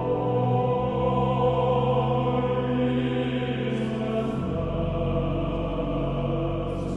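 Slow choral music: voices holding long, sustained chords over a low bass note that drops lower about two-thirds of the way through.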